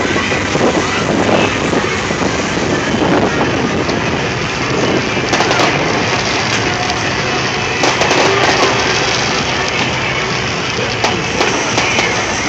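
Firework display: scattered sharp bangs and crackles over a steady din of outdoor noise and voices.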